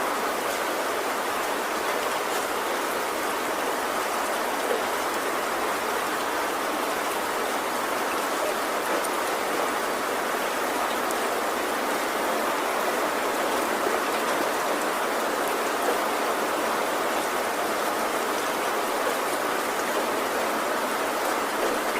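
Heavy rain falling steadily on a tin roof, an even downpour with scattered drop ticks and no thunder.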